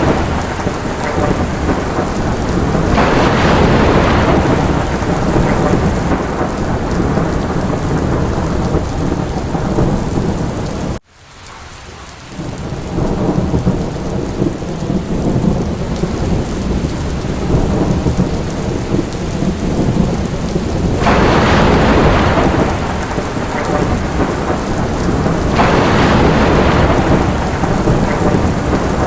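Steady heavy rain with low, rumbling thunder, the rain swelling louder several times. About eleven seconds in the sound cuts out abruptly and fades back in over a couple of seconds.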